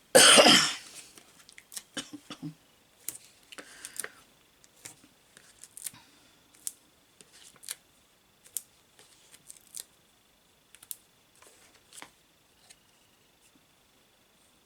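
A single loud cough, followed by scattered light clicks and small rustles of hand crafting with paper and adhesive pieces.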